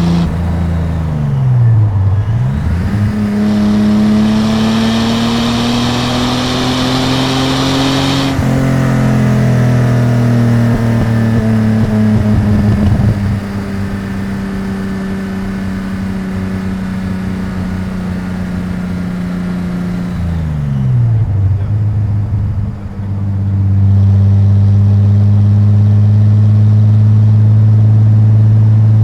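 Datsun 240Z's 2.8-litre L28 inline-six engine and exhaust while driving. The note dips, then climbs under acceleration for about six seconds and breaks off sharply at a lift-off or gear change. It eases down, holds steady at a cruise, drops again about twenty seconds in, and settles into a louder, steady drone near the end.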